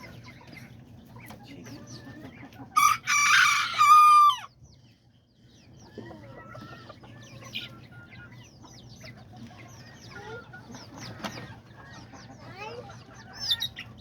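A rooster crowing once, loud, about three seconds in, with a long held note that falls at the end. Chickens cluck and chirp throughout.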